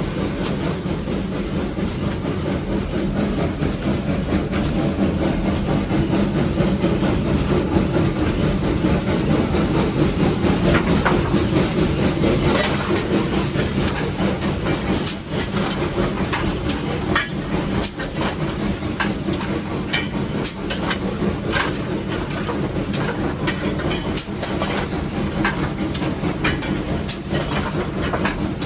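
Inside a steam locomotive's cab under way: a steady rumble and hiss of the engine working, with sharp metallic clicks and clanks coming thick and fast through the second half.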